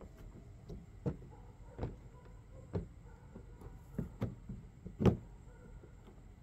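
A series of sharp knocks and clicks, about six spread over a few seconds with the loudest about five seconds in: the plastic resin panels and parts of a Rubbermaid deck box being handled and fitted together during assembly.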